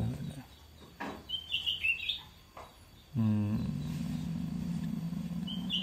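A small bird chirping in two short twittering phrases, the second near the end. A louder steady low hum sets in about three seconds in and carries on.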